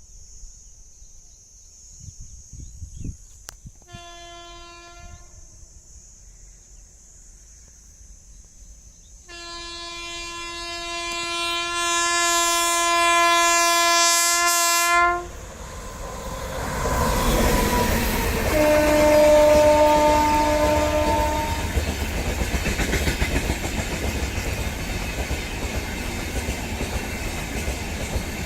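Indian Railways Humsafar Express train approaching and passing. Its locomotive horn gives a short blast about four seconds in, then a long blast of about six seconds as the train nears. The loud rush and clickety-clack of the train going by then take over, with another horn blast of about three seconds partway through.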